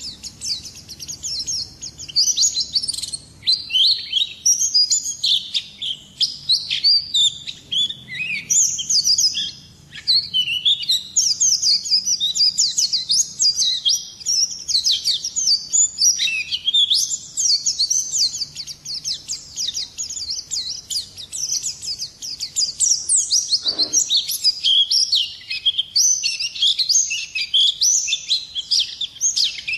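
A pleci (white-eye) singing a long, fast, unbroken song of high twittering chirps and trills.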